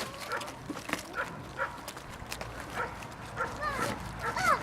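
Central Asian Shepherd puppies yipping and whimpering, with several short high yelps that fall in pitch, coming more often near the end.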